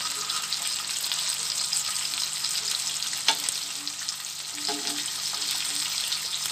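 Beef chapli kababs sizzling steadily as they fry in ghee on a flat tawa, with metal spatulas scraping the griddle as the patties are turned over; one sharp tap of a spatula about three seconds in.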